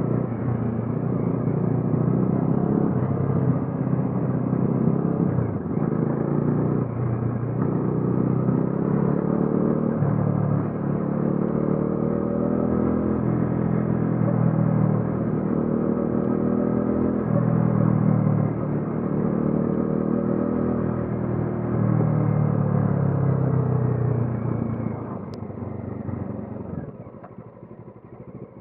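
Bajaj Dominar 400's single-cylinder engine accelerating hard through the gears, its pitch climbing and then dropping at each shift, again and again. Near the end the throttle comes off and the engine goes quieter.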